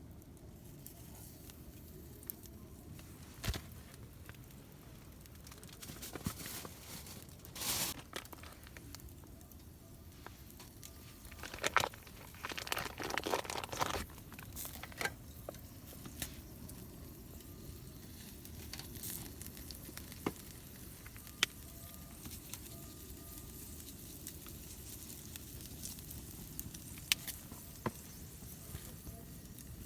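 Crinkling and rustling from handling something, with scattered small knocks and clicks; the longest stretch of rustling comes about twelve seconds in.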